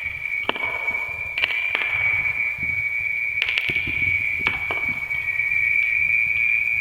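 Wood fire crackling, with scattered sharp pops, under a steady high-pitched whine.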